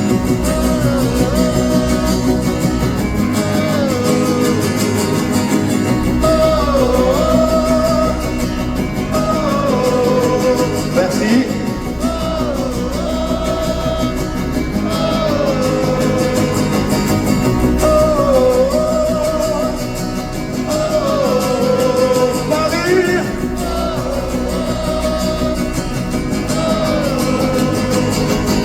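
Live rock band music amplified in an arena, a wavering melody in short phrases over a steady low bass that comes in about six seconds in.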